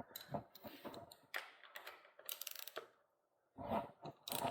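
Scattered small clicks and knocks of hand tools and bike parts being handled while a tight shifter fixing is worked on, with a short louder clatter of handling just after a brief pause near the end.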